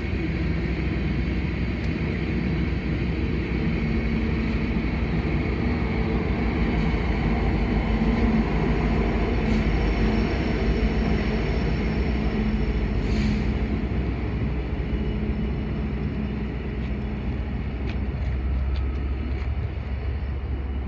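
Freight train of covered hopper cars rumbling past on the rails, followed by the rear-end Canadian Pacific diesel locomotive, whose engine hum is loudest around the middle. The sound then eases as the train moves away.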